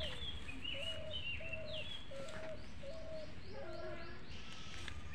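Wild birds calling: a string of short low notes repeated about twice a second, with higher chirps and a quick trill of high notes about three and a half seconds in.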